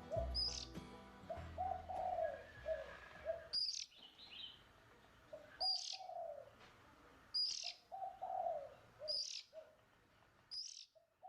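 Birds calling: a short, high chirp repeats about every one and a half to two seconds, alongside low cooing notes that slide down in pitch. Faint music fades out during the first few seconds.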